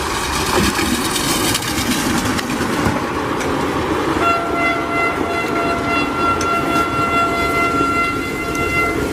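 A train running close by with a loud rumble and rattle. About four seconds in, its horn sounds one long, steady blast that lasts about five seconds and stops near the end.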